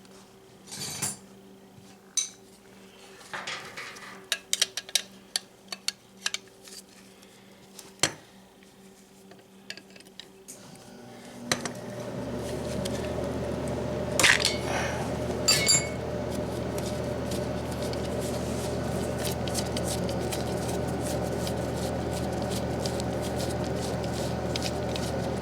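Metal parts and tools clinking and clicking at irregular intervals while an oil burner's nozzle assembly is handled and cleaned. About eleven seconds in, a steady machine-like noise with a low hum starts and carries on, louder than the clinks.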